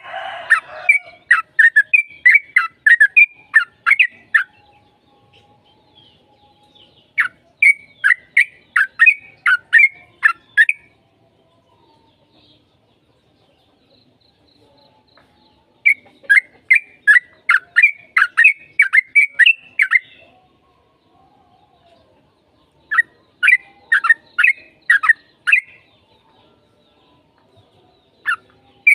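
Yellow-vented bulbul (trucukan) singing in bursts of rapid chirped notes, about three a second, each burst lasting a few seconds. Four bursts come with short pauses between them.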